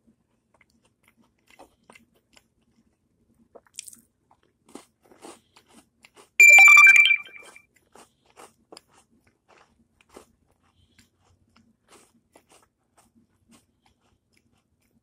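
A crunchy chocolate chip cookie being bitten and chewed close to the microphone: scattered soft crunches and mouth clicks, with one much louder crackling burst carrying a brief ringing tone about halfway through.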